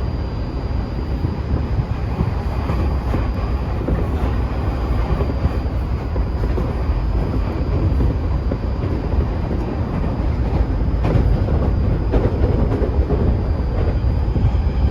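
Tokyu 2020 series electric train running at speed, heard inside the car: a steady rumble of wheels on rail with a faint, steady high tone. A few rail-joint clicks come through, one about eleven seconds in.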